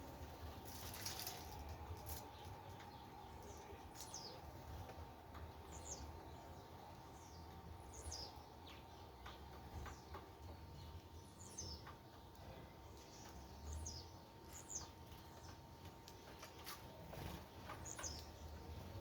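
Small birds at a feeding station giving short, high, downward-sliding chirps every second or two, faint over a low background rumble.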